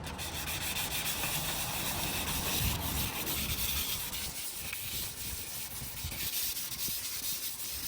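Fine 320-grit sandpaper rubbing steadily over the wooden door of an antique cabinet: the last, finest sanding pass that leaves the timber smooth for French polish.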